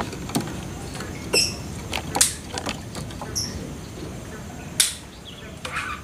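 Birds giving short, scattered chirps and calls, one a clear ringing note about a second and a half in and another a quick falling call a little later, with a few sharp clicks, over a steady low background noise.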